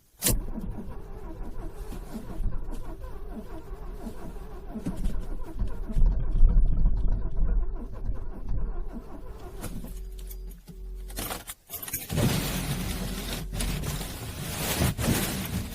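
Car engine being cranked in freezing cold, struggling to start. The sound cuts out briefly near the end, then comes back louder.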